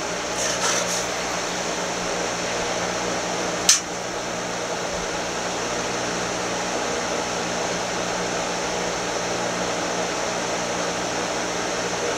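Steady fan-like whirring hum, with one sharp click nearly four seconds in.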